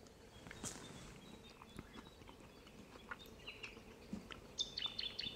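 Faint chewing and small clicks of a spoon as a man eats a rehydrated meal from a foil pouch. Short high chirps of birds come in over it near the end.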